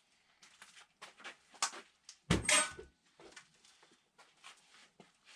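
Metal engine parts clinking and rattling as they are handled and set down, in a string of short knocks with one louder clatter about halfway through.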